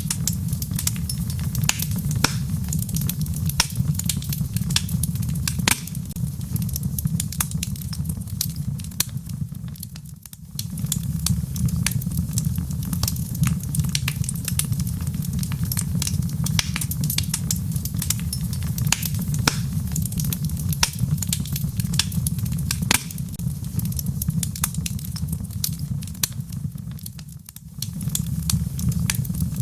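Wood fire burning in a fireplace: a steady low rumble of flames with frequent sharp crackles and pops from the burning logs. The sound dips briefly twice.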